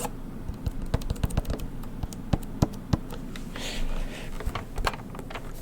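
Quick, irregular light clicks and taps of small hard objects being handled, with a brief rustle a little before the four-second mark.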